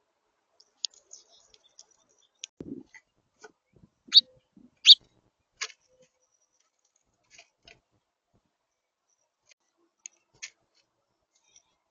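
Irregular sharp ticks and taps of a house finch pecking at seed on a feeder, the loudest pair about four and five seconds in, with a soft low thump about two and a half seconds in.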